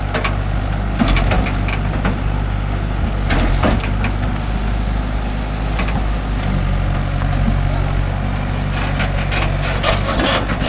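Diesel engine running steadily under load, with scattered knocks and clatter from a backhoe bucket loading cow dung into a tractor trolley.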